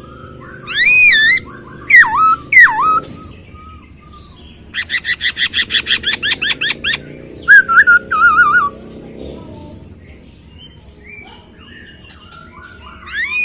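Caged poksay hongkong laughingthrush singing loud, clear whistled phrases: a long wavering note, two down-slurred notes, then a fast run of evenly repeated notes at about six a second and a quick warbled trill, with one more phrase near the end.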